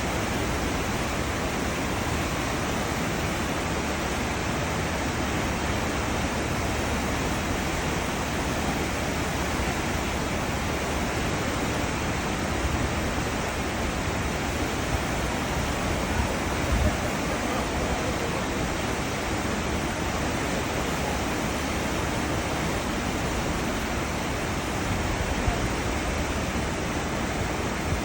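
Cruise ship wake: churning, rushing seawater behind the ship, a steady dense hiss with a low rumble underneath and a few brief low buffets.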